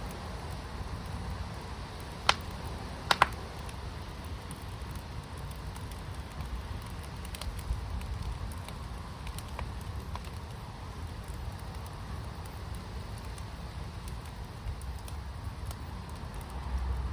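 Fire pit burning with a steady low rumble, a sharp crack about two seconds in, a quick double crack a second later, and a few faint pops after that.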